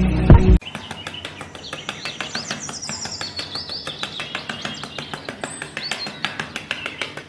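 Birds chirping: many short calls sliding up and down over a light background hiss, after music cuts off about half a second in.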